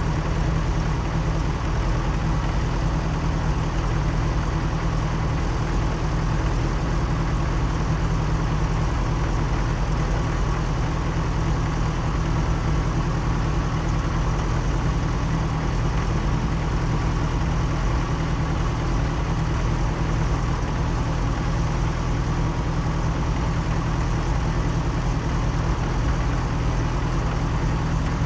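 BAC Mono's four-cylinder engine idling steadily, a low even note that does not change.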